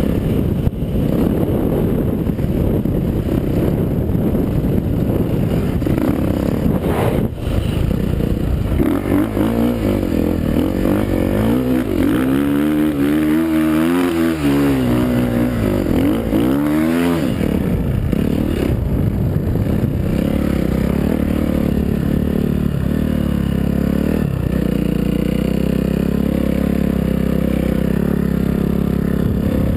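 Suzuki RM-Z450 motocross bike's single-cylinder four-stroke engine running under way. The revs rise and fall over and over for several seconds in the middle; the rest is a steadier, rough engine drone.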